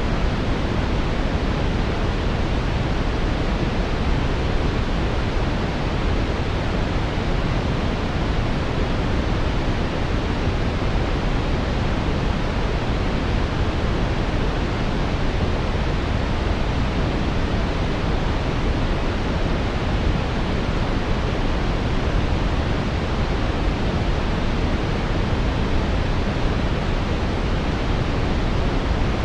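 Steady brown noise: a smooth, unchanging hiss with its weight in the deep bass, rolling off toward the treble.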